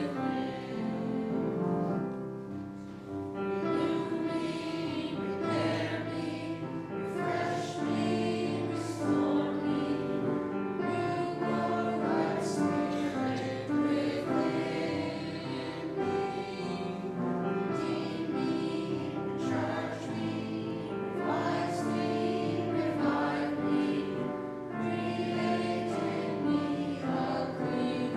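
A group of voices singing a sacred song together in church, with held notes that change in steady succession.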